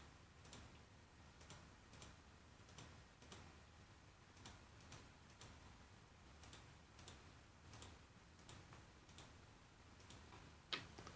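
Faint computer mouse clicks, irregular at roughly one or two a second, with one slightly louder click near the end, over near-silent room tone.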